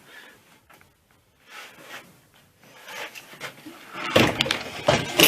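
Air compressor parts being handled: faint handling noise, then a run of knocks and clatter starting about four seconds in.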